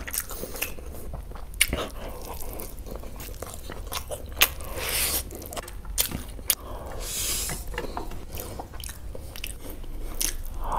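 Close-miked biting and chewing of crunchy fried food: an irregular run of sharp crunches and clicks.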